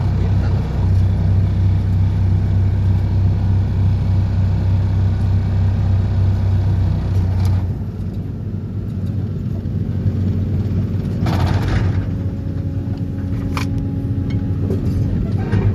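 Excavator-mounted vibratory pile driver (vibro hammer) shaking a steel sheet pile into the ground with a loud, steady low hum. About halfway through the vibration stops, and only an engine running and a couple of short knocks are left.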